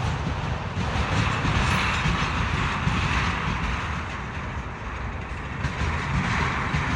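Freight cars of a long CSX train rolling slowly past, a steady rumble and rolling noise with faint wheel clicks.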